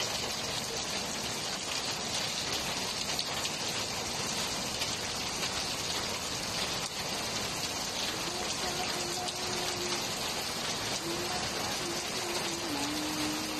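Steady rain falling on a concrete rooftop, an even hiss of drops with no let-up. A faint held tone that steps in pitch comes in over it about eight seconds in.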